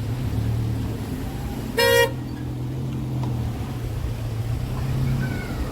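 A single short car horn toot about two seconds in, over a steady low rumble of vehicle traffic.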